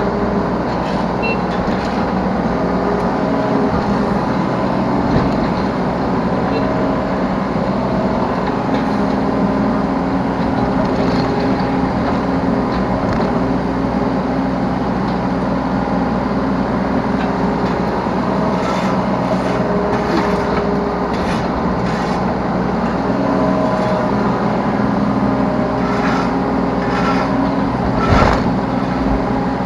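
Yanmar B3 Sigma 3-tonne mini excavator's diesel engine and hydraulics running steadily under working load, heard from the operator's seat, the tone shifting a little as the machine works. Scattered clicks in the second half and one louder knock near the end.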